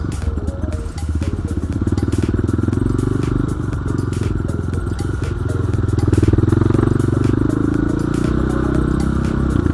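Enduro dirt bike engine running under load while riding, revs rising and falling and peaking about six seconds in, with frequent knocks and rattles from the bike over rough ground.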